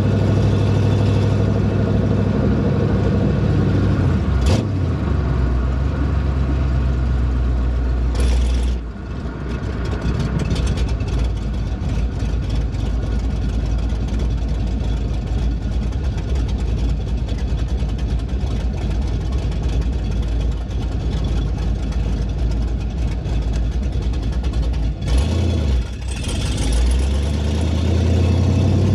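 Pontiac Trans Am engine running loud on a drive, its exhaust open on one side where the muffler has come off. The engine note drops off abruptly about eight seconds in and again near the end, then climbs, as with lifting off and accelerating through the gears.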